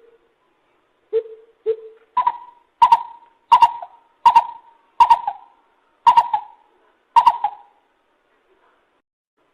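Lesser coucal calling: two lower notes, then a run of seven louder, higher notes, evenly spaced at first and slowing slightly near the end.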